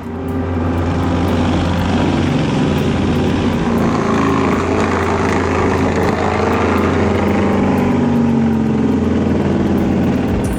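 Forestry mulcher running steadily under load, a heavy machine's engine and spinning rotor making a loud, even drone.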